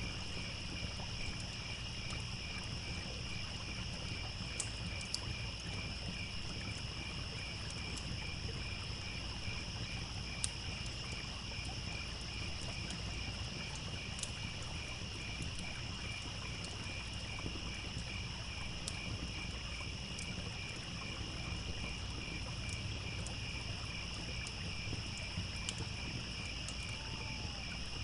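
Crickets chirping in a steady, even rhythm over the low rush of a trickling stream, with occasional sharp pops and crackles from a campfire.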